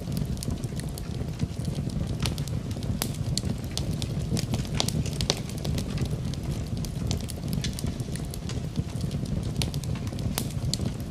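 Fireplace fire burning: a steady low rumble of flames with frequent irregular sharp crackles and pops.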